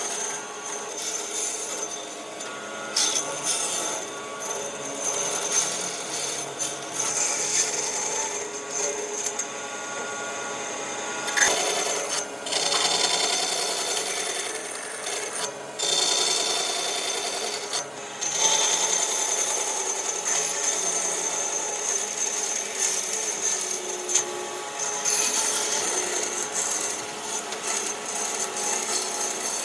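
Power tools working wood: a steady high whine over rough abrading noise, breaking off and changing abruptly several times along the way.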